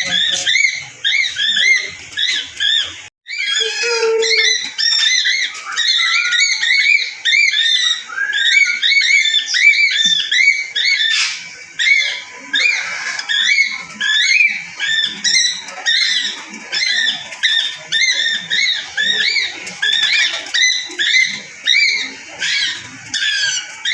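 Parrots chirping and chattering together: a dense, unbroken stream of short, high, arching chirps. It drops out for an instant about three seconds in.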